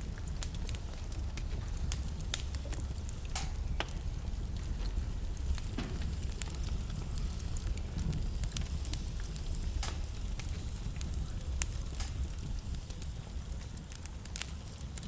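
Wood fire burning in a fireplace: a steady low rumble of the flames with irregular crackles and sharp pops from the burning logs.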